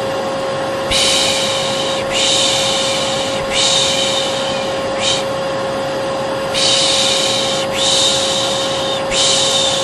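A vacuum cleaner running steadily with a constant motor whine, overlaid with a person's shushing: long 'shh' sounds of about a second each, repeated with short breaks and one longer pause midway. The two together make a soothing white-noise loop for calming a baby.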